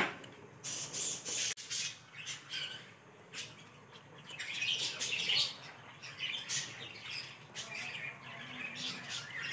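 Birds chirping: a run of short, irregular high-pitched chirps, busiest around the middle.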